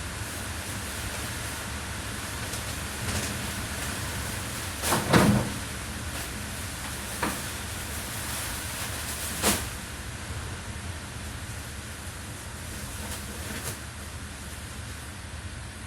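Steady hiss of falling rain, with a few sharp knocks, the loudest a double knock about five seconds in and single ones about seven and nine and a half seconds in.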